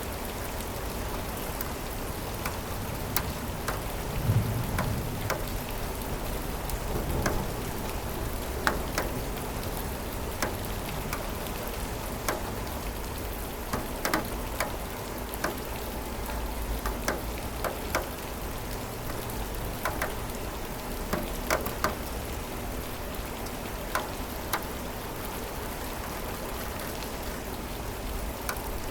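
Steady rain, with heavy drops hitting a hard surface as scattered sharp taps. A low rumble of distant thunder rolls in about four seconds in and again a few seconds later.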